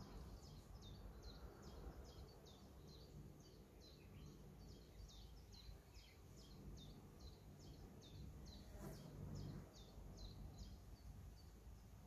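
Near-silent rural background: a small bird calling with short, high, falling chirps about three times a second, over a faint low rumble. A short dull thump about nine seconds in.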